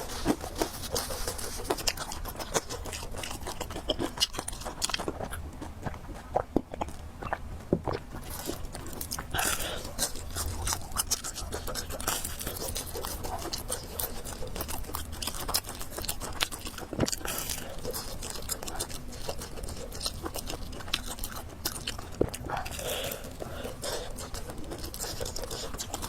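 Close-miked eating sounds: a person chewing and biting into fried noodles and pork, with many small irregular clicks and crunches.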